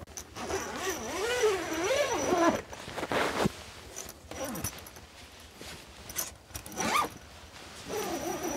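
Rooster crowing: a long wavering crow in the first few seconds, followed by shorter sharp calls about three and seven seconds in.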